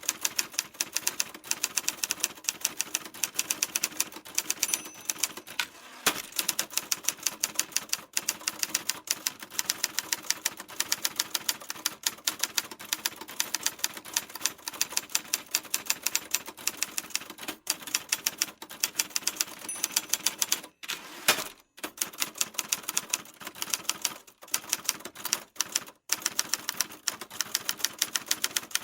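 Typewriter keys striking in a fast, uneven stream of sharp clicks, several a second, with a couple of short pauses about two-thirds of the way through.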